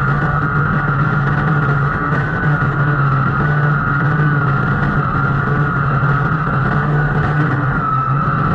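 Engine running steadily at high speed, a constant low hum under a high whine that wavers slightly in pitch.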